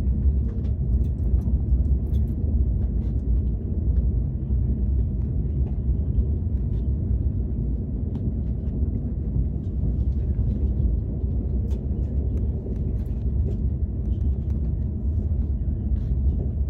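Steady low rumble of a KTX high-speed train heard from inside the passenger cabin, with faint scattered clicks over it.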